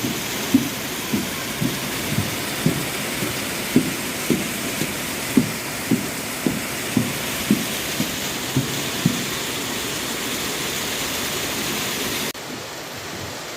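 Mountain stream rushing steadily, with soft low thuds about two a second for the first nine seconds. Near the end the water sound drops abruptly to a quieter level.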